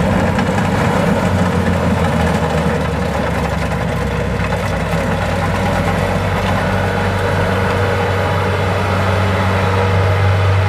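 Diesel engine of a rice harvesting machine running steadily at a constant speed, with a dense mechanical clatter over its hum.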